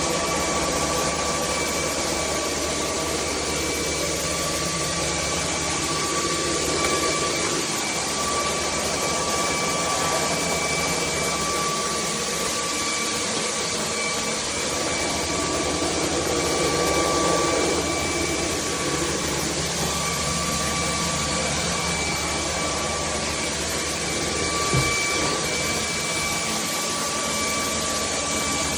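Bulelink cordless stick vacuum running steadily: a rush of air with a steady high whine from its motor, and a single short knock near the end.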